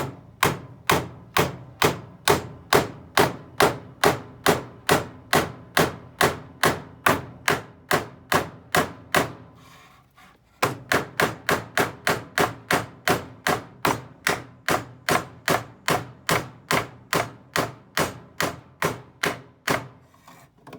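Hammer driving a nail into a wooden board, steady blows about two and a half a second, with a short pause about halfway before the hammering resumes.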